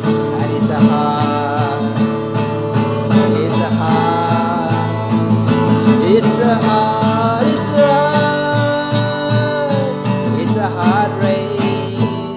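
Acoustic guitar strummed steadily as a folk-song accompaniment, with a melody line carried over the chords.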